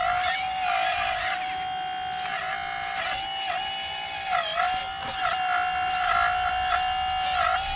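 Electric hydraulic pump motor of an RC excavator whining steadily, its pitch sagging briefly several times as the hydraulics are loaded, with higher whirring from the working motors and valves.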